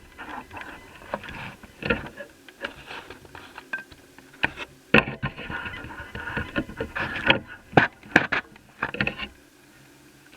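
Irregular plastic clicks, taps and scrapes of hands and tools working the cooling-system cover off the underside of an Asus F5R laptop, with a cluster of sharper clicks in the second half.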